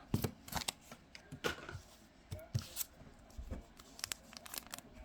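Trading cards being handled and flipped through by hand: irregular short rustles, slides and light clicks of card stock.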